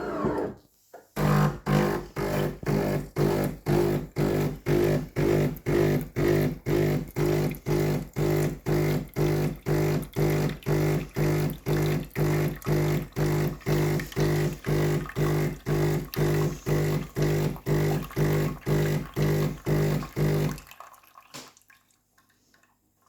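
DeLonghi automatic espresso machine running its rinse cycle, its pump pulsing on and off in a steady hum about twice a second as it flushes water through the coffee nozzles. It stops abruptly about 20 seconds in.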